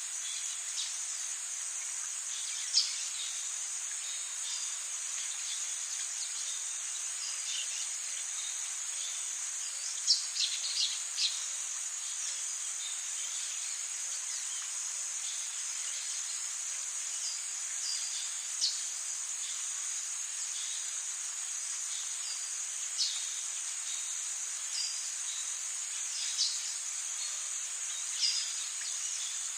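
Rainforest ambience: a steady, high-pitched chorus of insects, with short chirping calls scattered over it, a little louder about ten seconds in and several times near the end.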